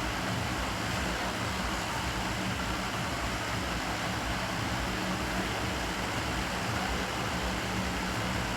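Steady hiss with a low hum from a running electric fan, unchanging throughout.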